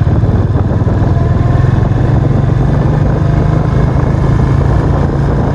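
Custom Suzuki cruiser motorcycle's engine running steadily while being ridden at an even pace.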